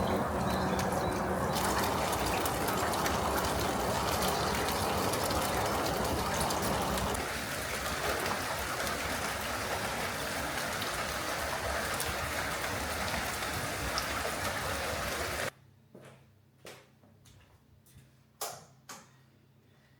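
Water running steadily, a loud even splashing spray, which cuts off suddenly about three-quarters of the way through, leaving a quiet room with a few soft taps and clicks.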